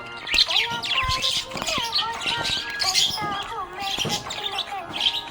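Budgerigars chirping and warbling in fast, dense chatter, with a tune of held notes playing underneath.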